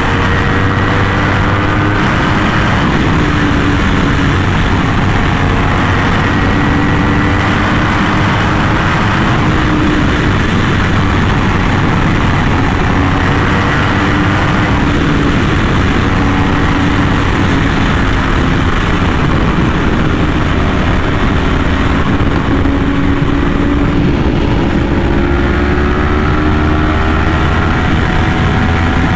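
Yamaha R1M crossplane inline-four running through an SC Project aftermarket exhaust while riding, its note rising and falling gently with the throttle.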